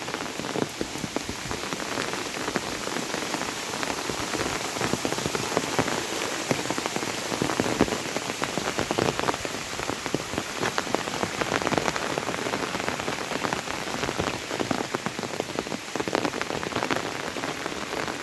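Steady monsoon rain, with dense, irregular drop impacts pattering on a surface close by.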